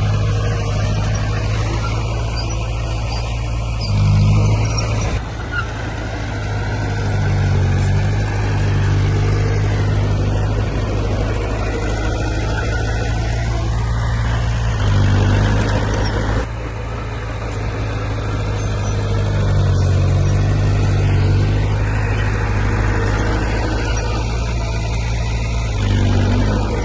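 Bulldozer's diesel engine working, its low note swelling briefly under load every few seconds as it pushes soil.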